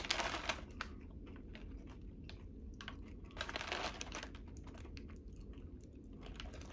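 Crunching and chewing on a crispy fried-shrimp snack, with small crackles in the first second and again midway, and the snack bag crinkling in the hands.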